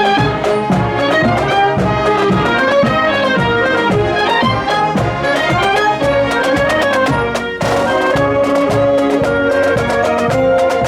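Marching band playing: brass carrying the melody over a steady drum beat of about two strikes a second.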